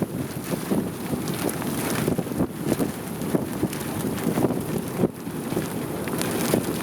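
Gusty wind buffeting the microphone, a rough noisy rush that rises and falls from moment to moment.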